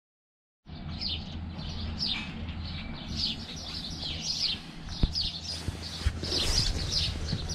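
Birds chirping, a quick run of short falling chirps, over a steady low hum. It starts abruptly about half a second in, with a couple of short knocks about five and six seconds in.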